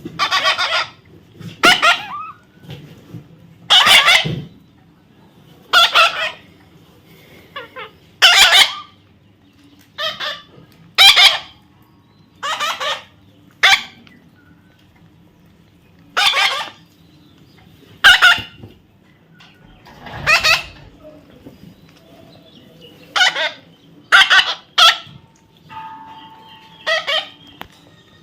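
A parrot giving loud, harsh squawks, one short call every second or two, with some calls in quick pairs.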